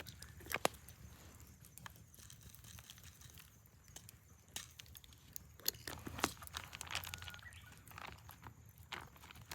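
Scattered small clicks, knocks and crinkling rustles, the sound of things being handled close by, with the sharpest clicks about half a second in and again around six seconds in.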